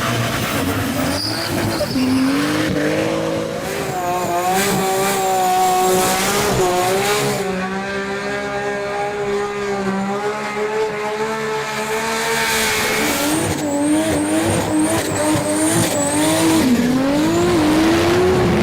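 Turbocharged Ford Barra 4.0-litre straight-six revving hard and held at high revs, its pitch wavering up and down.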